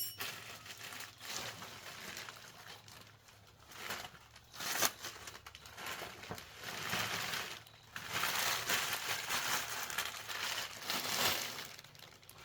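Crinkling and rustling of material being handled, in irregular bursts, with a sharp click at the start; the longest, loudest stretch comes from about eight to eleven seconds in.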